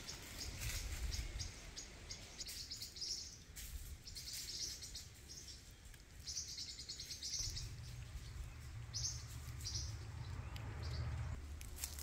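Birds chirping in short clusters of rapid, high notes, repeated several times.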